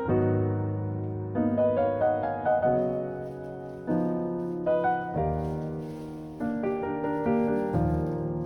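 Background music: gentle piano, chords struck about once a second and left to ring.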